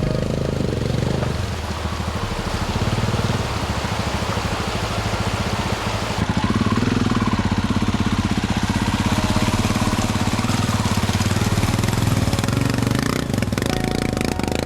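Motorcycle engine running under way, its firing pulses steady, with wind rushing over the microphone; the engine note changes about a second and a half in and again around six seconds. A few sharp knocks come near the end.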